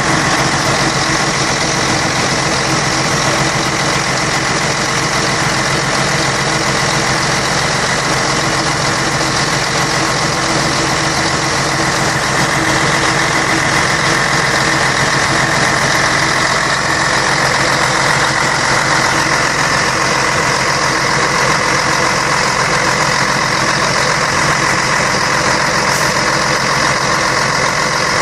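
Scania K113 bus's 11-litre straight-six diesel engine running steadily at a constant, idle-like speed.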